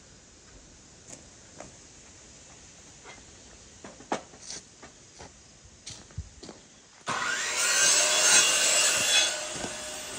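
Scattered light knocks and taps, then, about seven seconds in, wood being sawn: a sudden loud cutting noise that lasts about two seconds before easing off.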